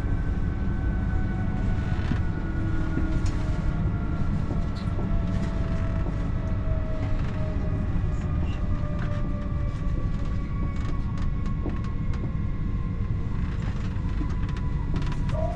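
Interior of a TER regional train: a steady low rumble with a faint whine that slowly falls in pitch, and scattered light clicks and rattles. The train is slowing on its approach to a station stop.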